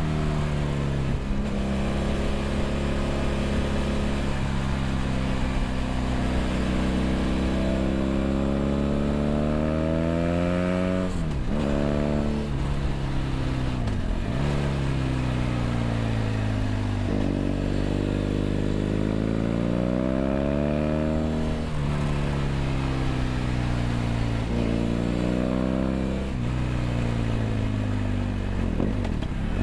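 BMW F800GS parallel-twin engine through a LeoVince LV ONE EVO stainless slip-on exhaust, heard from on board while riding. The engine note climbs and falls repeatedly, with several sharp breaks as the rider shifts gear or rolls off and back on the throttle.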